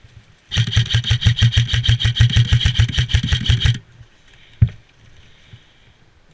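Airsoft electric gun firing a full-auto burst of about three seconds: a rapid train of shots, roughly a dozen a second, over the whine of its motor and gearbox. A single sharp knock follows about a second after the burst stops.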